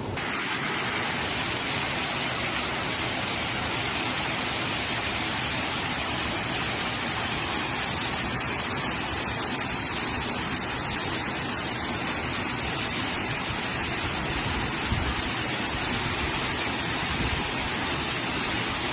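Waterfall pouring over a smooth rock cliff: a steady, even rush of falling water.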